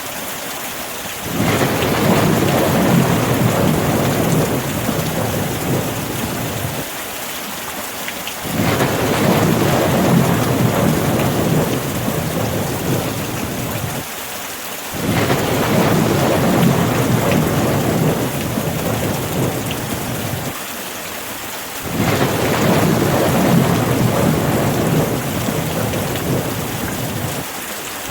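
Steady rain with rolling thunder. Four low rumbles swell up one after another, each lasting several seconds before easing back to the rain.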